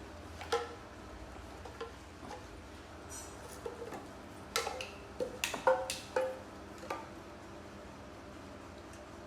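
Toy drum being tapped irregularly: a few single taps, then a quick flurry of short ringing knocks about halfway through.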